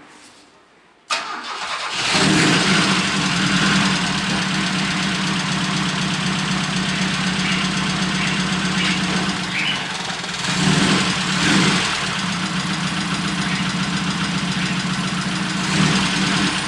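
A Chevrolet Chevette's four-cylinder engine starts about a second in and then runs loud and steady, the first start of the freshly reassembled engine. The sound swells briefly about ten seconds in.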